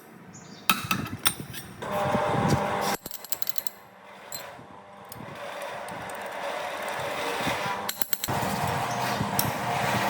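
Irregular clicks, knocks and clinks of metal tools and engine parts being handled, with a steadier hiss building up in the second half.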